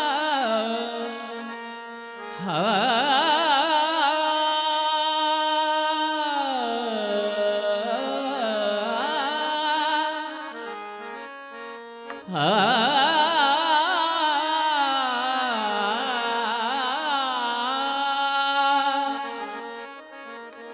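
A singer's wordless, drawn-out alaap with wavering held notes, in two long phrases, over harmonium chords, the opening of a devotional Marathi abhang.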